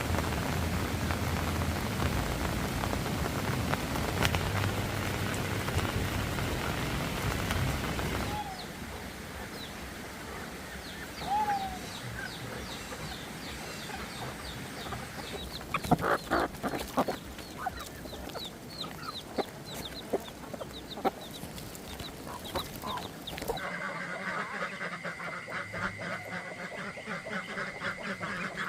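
Steady rain for about the first eight seconds. Then it cuts to farm poultry: scattered chirps, clucks and a few calls. Near the end comes a flock of ducks calling rapidly over a steady high tone.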